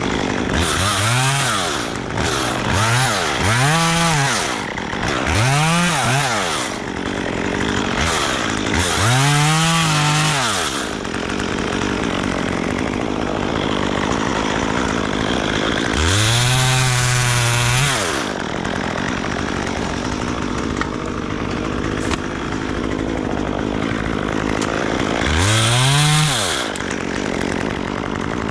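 Gas chainsaw revving in repeated bursts, about seven times, its pitch climbing and falling back each time, the longest burst held for about two seconds past the middle, dropping back to a lower running sound in between.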